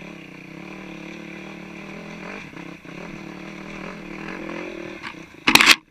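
Four-stroke single-cylinder 450 dirt bike engine running at a steady low speed, with a slight rise and fall in pitch. Near the end comes a sudden loud rush of noise lasting about half a second, then the engine sound drops away.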